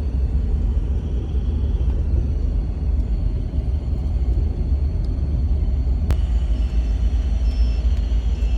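Steady low rumble of a sleeper bus on the move, engine and road noise heard from inside the cabin, with a single sharp click about six seconds in.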